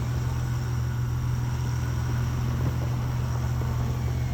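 Off-road vehicle's engine running steadily at low revs, a constant low hum without change.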